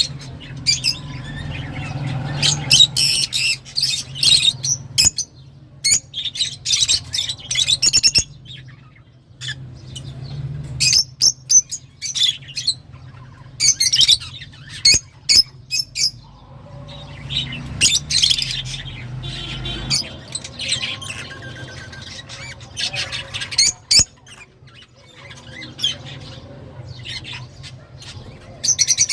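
A group of lovebirds chattering, with shrill squawks and chirps coming in quick clusters and short pauses between, over a steady low hum.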